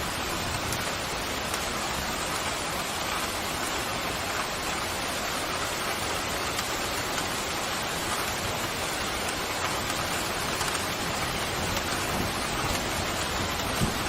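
Steady pouring rain, an even unbroken hiss of falling water, with one brief low thud near the end.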